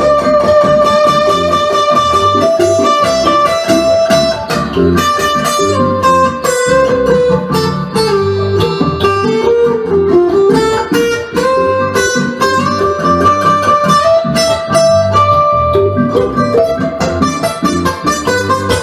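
Instrumental break of a bluesy song: guitar music with a long-held melody line that slides down in pitch in the middle and climbs back, over bass notes and drums.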